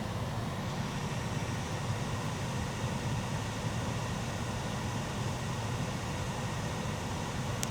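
Steady low hum and hiss of a vehicle idling, with a single short click near the end.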